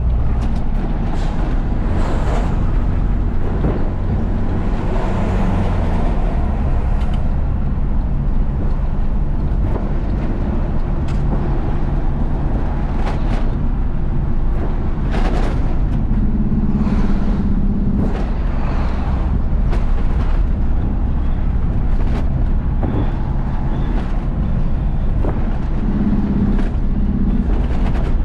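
Isuzu FRR90 truck's diesel engine running under way, its note changing pitch several times with the driving, over steady road noise and scattered short rattles.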